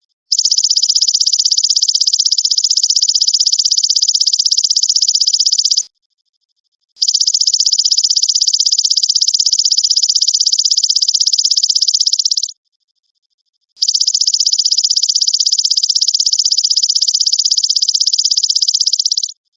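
Belalang emas insect singing: a fast, even, high-pitched pulsing trill in three long bursts of about five seconds each, with roughly one-second pauses between them.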